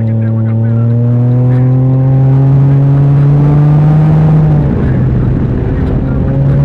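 Can-Am Ryker three-wheeler's engine pulling under throttle, its note climbing slowly, then falling as the throttle is eased about four and a half seconds in, and rising briefly again near the end.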